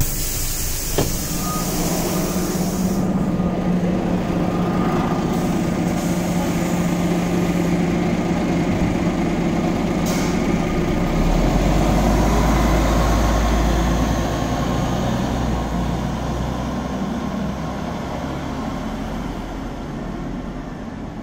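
Inside a Scania Omnicity city bus: a loud hiss of released air for the first few seconds, then the bus's running noise with a steady low hum. A deep rumble swells for a few seconds past the middle, then the sound slowly dies down.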